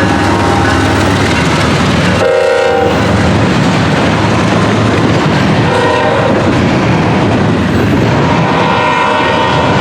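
Westbound intermodal freight train passing close by: a loud, steady rumble and rail clatter from its wheels. Brief horn sounds come about two seconds in and again around six seconds.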